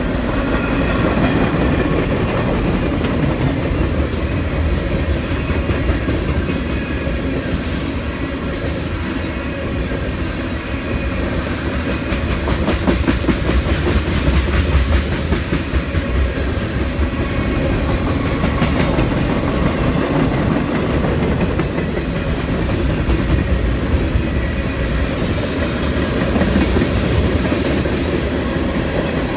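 CSX freight train rolling past, a steady rumble of railcar wheels on the rails. A run of quick clickety-clack comes from the wheels crossing rail joints about halfway through.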